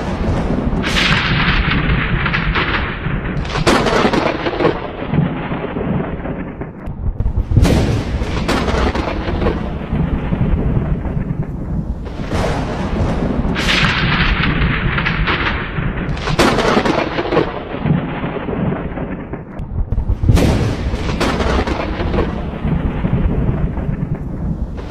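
Thunderstorm: repeated thunder cracks, each trailing off into a rumble, a few seconds apart over steady rain.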